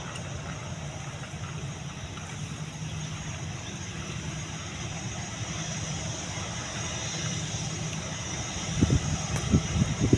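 Steady low drone of an Airbus A320-214's turbofan engines running at idle, with a few low thumps about nine seconds in.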